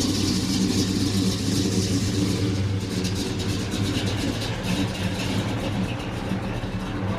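A vehicle engine running steadily at idle, a low even hum.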